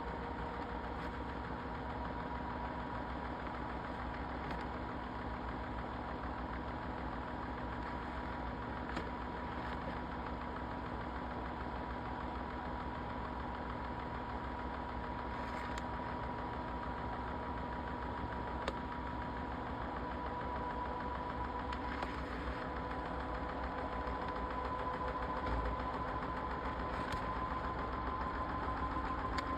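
Washing machine running: a steady motor hum and whine that creeps slowly up in pitch, with a few faint clicks.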